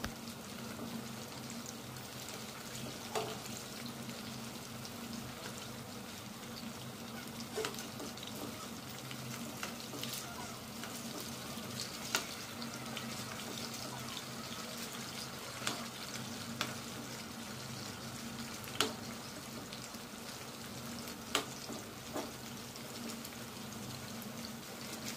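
Masala-coated chicken pieces shallow-frying in hot oil in a pan, a steady sizzle on a medium flame. A metal spoon clicks sharply against the pan every few seconds as the pieces are nudged about.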